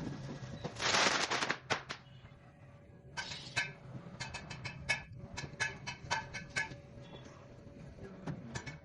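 Workshop sounds of sofa repair: a brief rush of noise about a second in, then a quick run of sharp clicks or taps, several a second, over a faint steady hum.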